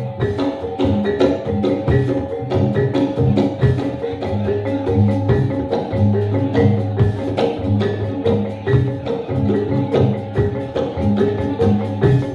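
Live Javanese reog / jaran dor accompaniment music: tuned mallet percussion plays a repeating pattern of notes over a quick, steady beat of sharp drum and percussion strikes.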